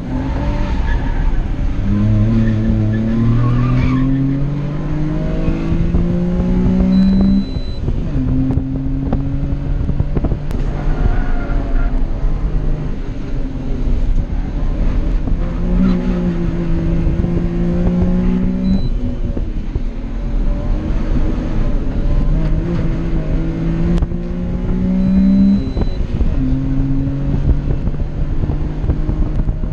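Kei car engine heard from inside the cabin under hard acceleration on a race circuit. Its pitch climbs and then drops at each gear change, several times over.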